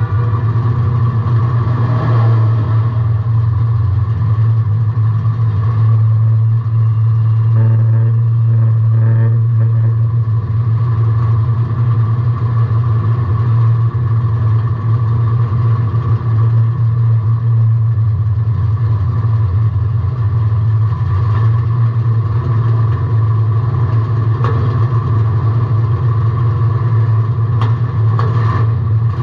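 Car engine running at a steady, unchanging speed, heard from inside the car's cabin.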